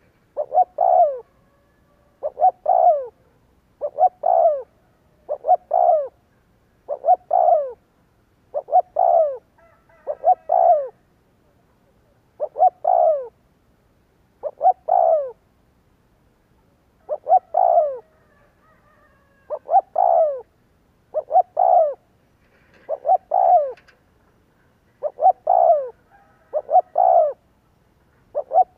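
Spotted dove (Streptopelia chinensis) cooing: the same short phrase of two or three low, falling coo notes repeats about every one and a half to two seconds, with brief quiet gaps between phrases.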